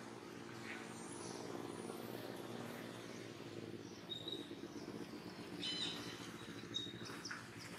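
A few short, high bird chirps about four, six and seven seconds in, over a steady low background hum.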